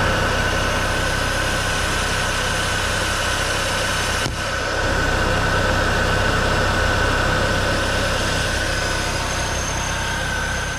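1998 Chevrolet Cavalier's 2.2-litre four-cylinder engine idling steadily, with a steady high whine over the hum; the sound dips briefly about four seconds in.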